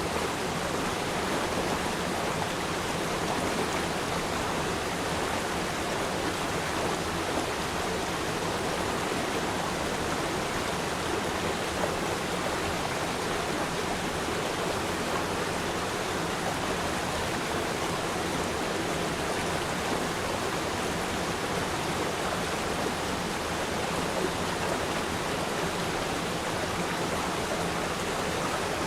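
River stream flowing over rocks: a steady, even rush and babble of water.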